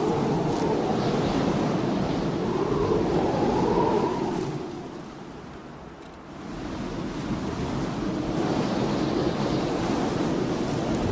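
Snowstorm wind blowing in gusts, easing off about five seconds in and then building back up.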